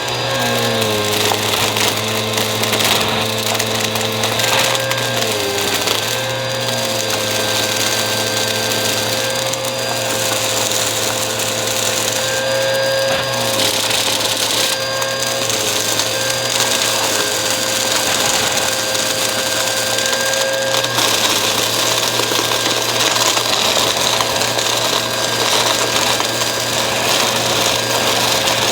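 Bissell vacuum cleaner running steadily, its motor tone dipping in pitch briefly a few times in the first seconds, with a rush of air and brush noise that gets louder and hissier about two-thirds of the way through.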